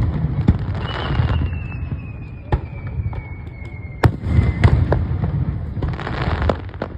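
Fireworks display: aerial shells bursting with sharp bangs over a continuous low booming rumble, the bangs clustering around four to five seconds in. A thin high whistle slides slowly down in pitch from about one second to four and a half seconds in.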